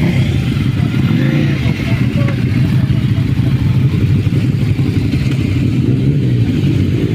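Motorcycle engine running steadily, its pitch wavering and rising near the end.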